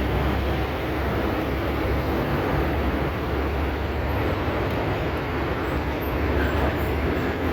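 A steady, even mechanical drone with a strong low hum and a wash of noise, unchanging throughout.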